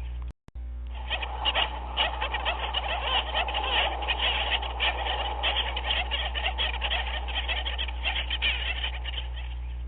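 A dense chorus of many overlapping animal calls chattering continuously over a steady low hum, with a split-second gap about half a second in where the looped recording restarts.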